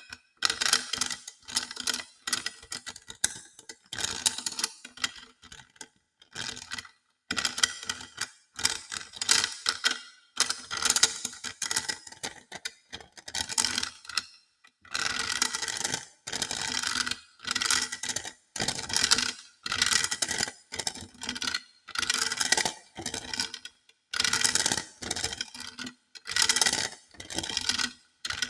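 Hodo balls being handled for ASMR, clicking and rattling against each other in quick runs of sharp taps. The runs last about a second each, with short pauses between them.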